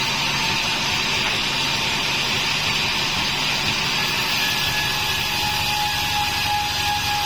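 Homemade band sawmill running with a steady, loud rushing noise and a faint whine that comes in about four seconds in, over a low engine hum that fades and returns.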